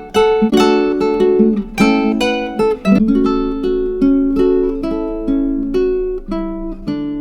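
Background music: an acoustic guitar picking and strumming chords, with a last chord struck near the end that is left to ring.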